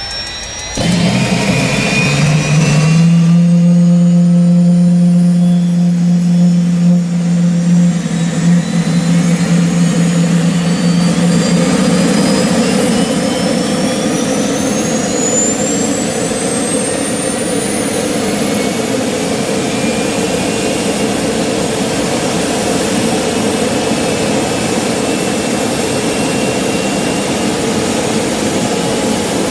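Turbine jet engine running loud, its thin high whine climbing steadily in pitch over about twenty seconds as it spools up. A steady low drone runs with it through the first dozen seconds, and the sound jumps louder about a second in.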